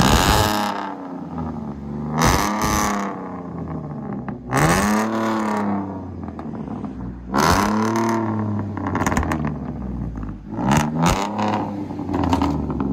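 Ford F-150 V6 revved repeatedly through a straight-piped true dual exhaust with no mufflers or resonators: about five sharp throttle blips, each rising and falling back to a low idle, the last few coming quicker.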